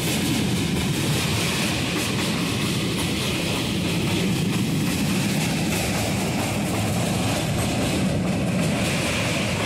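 Steady rumble and rattle of a moving passenger train's wheels on the rails, heard from inside the coach through an open window.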